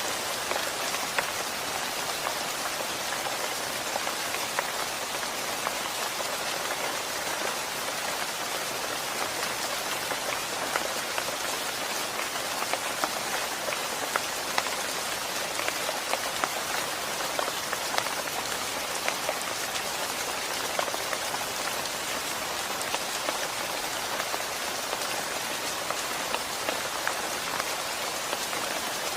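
Steady rain falling: a dense, even hiss with frequent sharp ticks of single drops hitting a surface.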